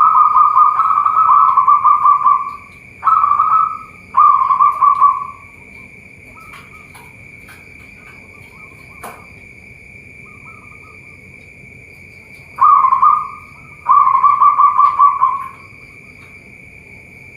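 Zebra dove (perkutut) cooing in phrases of rapid, pulsing notes: three phrases, a pause of several seconds, then two more. A steady high insect drone runs behind.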